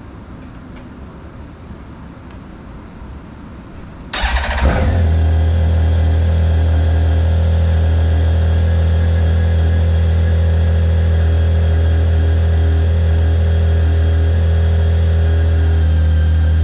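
BMW K1600GTL inline-six motorcycle engine starting about four seconds in: a brief burst as it cranks and catches, then a steady idle through the exhaust.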